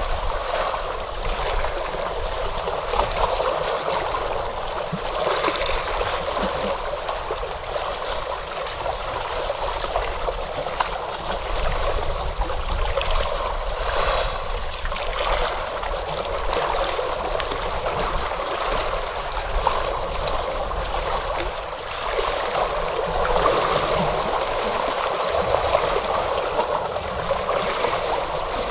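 Ocean waves washing and churning, a steady rush of moving water with only small rises and falls in level.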